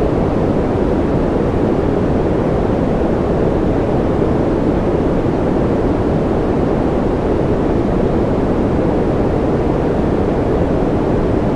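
Steady white noise for baby sleep: an even, unbroken rushing hiss, deep in tone rather than bright, holding the same level throughout.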